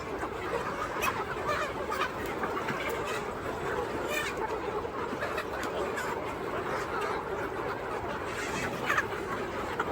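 A flock of chickens clucking, many birds calling over one another in a steady busy chatter with a few sharper calls.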